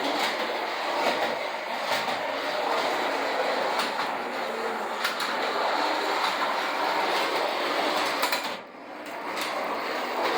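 Early Lionel toy trolley running on metal track: its small electric motor whirring and its wheels clattering, with scattered clicks. The running noise drops away briefly about eight and a half seconds in, then picks up again.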